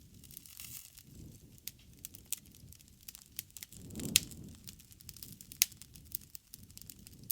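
Wood bonfire crackling and popping, with sharp snaps scattered unevenly through it. A low rush of flame swells about four seconds in, peaking with a loud snap, and another loud pop follows a second and a half later.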